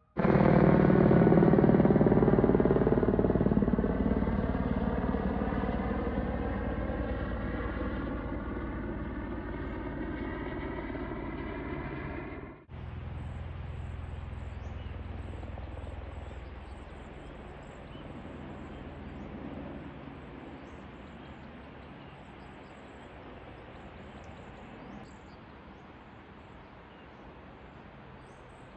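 Helicopter flying close, loud at first with a steady rotor flutter, fading over about twelve seconds as it draws away. About halfway through, an abrupt cut to a fainter, more distant helicopter drone with faint bird chirps over it.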